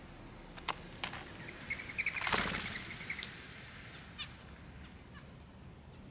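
Small birds at a backyard seed feeder: a couple of sharp taps, then about two seconds in a burst of fluttering wings with a fast rattling call, and a brief chirp about four seconds in.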